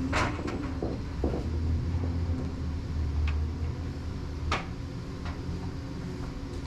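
A steady low engine drone under scattered sharp knocks and clacks from climbing among paper rolls and fitting edge protectors. The loudest knocks come just after the start and about four and a half seconds in.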